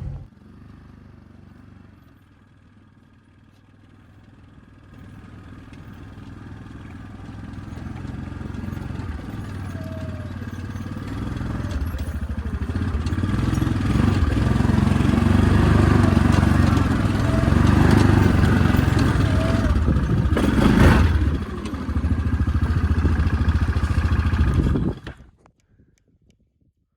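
A vehicle driving on a gravel road: steady rumble and crunching road noise with some rattle, growing louder over the first half, one sharp knock near the end, then cutting off suddenly.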